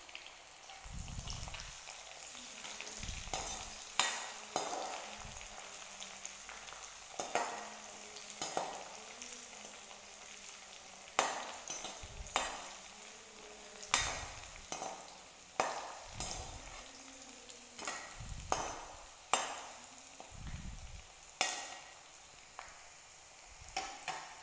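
Cornflour-coated sweet corn kernels frying in hot oil in a kadhai, a steady sizzle, while a perforated steel skimmer stirs and scrapes them around the pan. Sharp clicks come every second or two, the loudest sounds.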